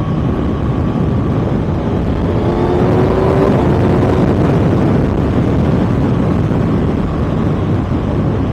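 Kawasaki ZX-6R inline-four running at road speed under heavy wind rush on the bike-mounted camera's microphone. The engine note rises briefly about two and a half to four seconds in, as the bike accelerates.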